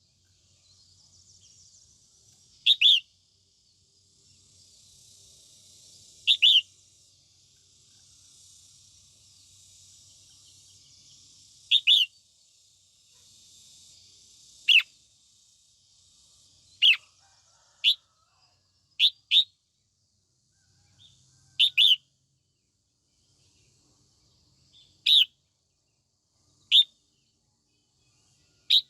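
Female red-whiskered bulbul giving short, sharp calls every few seconds, many of them in quick pairs: the female's call used to rouse males into singing.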